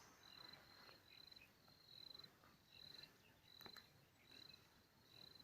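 Faint, evenly repeated high chirps at one steady pitch, each a short rapid trill, about one every two-thirds of a second, typical of a cricket chirping. A single faint click about three and a half seconds in.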